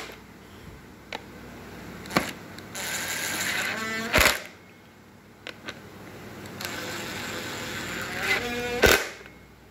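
Battery impact driver whirring in two short runs, each ending in rapid hammering, with a few sharp knocks of tool on metal between them.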